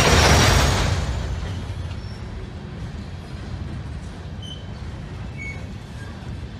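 Coal train hopper cars rolling past on steel rails: a steady low rumble of wheels, with a loud rushing surge of noise in the first second that then eases off.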